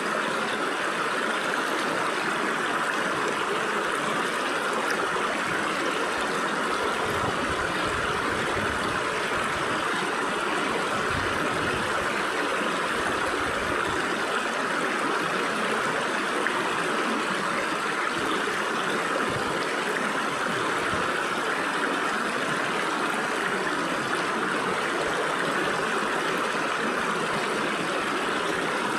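Stream water flowing and splashing through gaps between rocks, a steady rushing babble.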